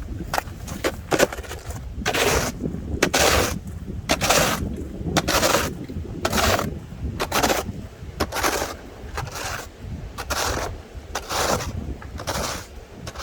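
Footsteps crunching through snow at about one step a second, with wind rumbling on the microphone underneath.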